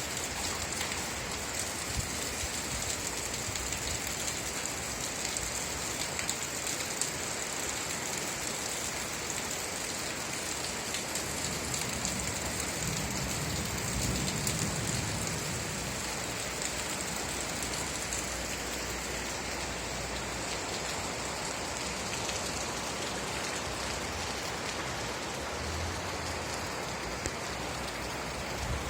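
Steady rain falling, an even hiss of many drops. A low rumble swells and fades about halfway through.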